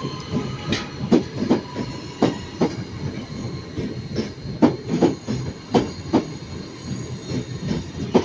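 Train wheels running over rail joints and pointwork, an irregular clickety-clack of sharp knocks about two a second over a rumble, with thin steady squealing tones from the wheels above it.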